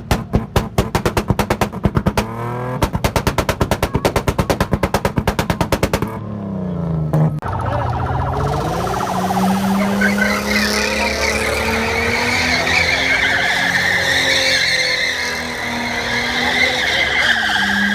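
Rapid, even knocking at about five a second, then a falling tone and a single thump about seven seconds in. After that, a car-like engine drone with a wavering high squeal like tyres skidding.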